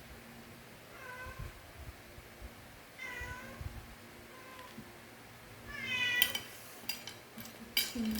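A domestic cat meowing several times in short calls, the loudest about six seconds in, followed by a few sharp clicks near the end.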